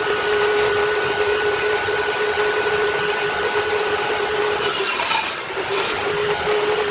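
An electric power tool running steadily on wood, a constant motor whine over a rasping noise, easing off briefly about five seconds in and then picking up again.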